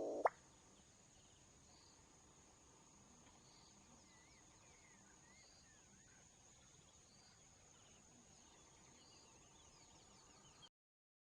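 Faint outdoor ambience: a steady high-pitched insect drone with a soft call repeating about once a second and a few faint bird chirps. It opens with a brief voice cut off by a click, and everything stops abruptly shortly before the end.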